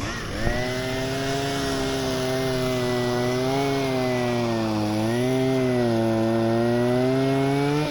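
Chainsaw running at high revs while cutting through a branch, its pitch dipping briefly under load in the middle and dropping as the throttle is released at the end.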